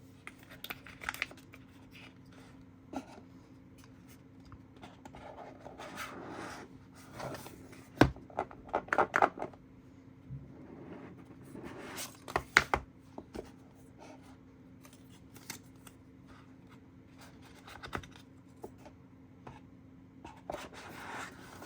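Unboxing handling of cardboard and plastic packaging: scattered rustling and scraping with sharp clicks, a cluster of loud clicks about eight to nine seconds in and again about twelve seconds in.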